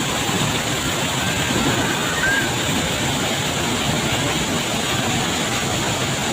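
Steady, even rush of falling water from Tegenungan waterfall, with no change in level.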